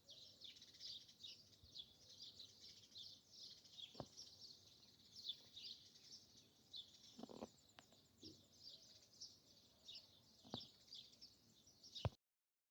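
Many small songbirds chirping and singing together in a forest, a steady chorus of high twitters, with a few faint sharp clicks; it cuts off suddenly near the end.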